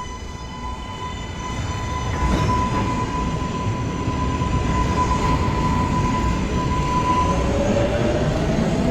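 New York City subway train pulling through the station: its electric motors give a high whine held at one pitch that fades about seven seconds in, then a new rising whine starts near the end, over a rumble of wheels on rail that grows louder.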